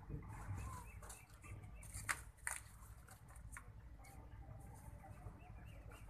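Faint, scattered bird chirps with a low background hum, and two sharp clicks about two seconds in.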